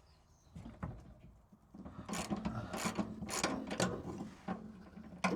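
Ratchet spanner being worked in repeated strokes on a bolt under a van, clicking and scraping, loosening the diesel heater tank's mounting straps. It starts about two seconds in after a quieter stretch.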